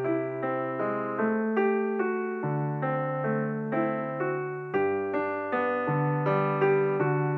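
Background piano music: a steady run of single notes, about two and a half a second, each fading away, over low notes held for a couple of seconds at a time.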